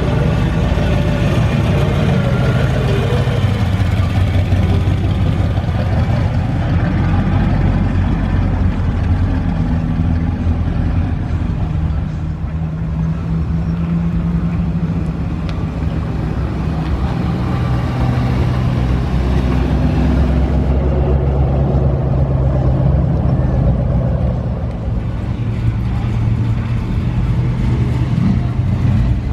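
Car engines running as several cars drive slowly past one after another, the low engine note shifting each time a different car passes.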